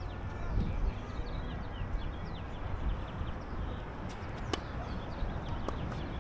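Small birds chirping in quick, short falling notes over a steady low rumble, with a few faint sharp clicks in the second half.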